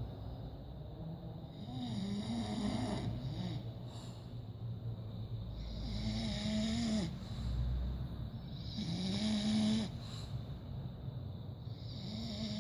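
Bulldog snoring in its sleep, one drawn-out snore about every three seconds.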